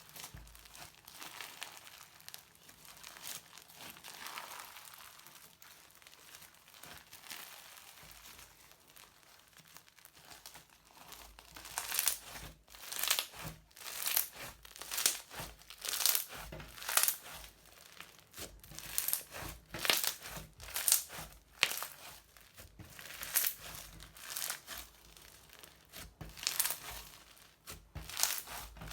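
Crunchy slime mixed with modelling foam being squeezed and kneaded by hand, crackling and crinkling. It is faint at first, then from about halfway through comes a loud crackling squeeze roughly once a second.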